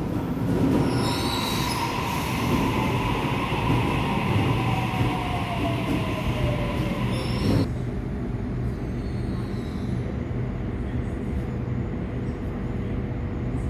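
Sydney Trains electric train with steel wheels squealing on the rails and a motor whine that falls slowly in pitch. About eight seconds in, the squeal cuts off suddenly, leaving a steady low rumble and hum.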